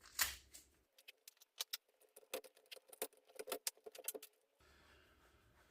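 A run of quick, irregular, light clicks and taps as copper wire ends and crimp sleeves are handled and sorted in a junction box before crimping.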